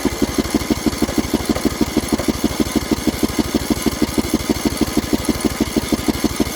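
Poulan Pro mower engine cranked by its electric starter off a jumper pack, turning over in an even, rapid beat of about eight compression pulses a second without catching, a sign that it wants choke.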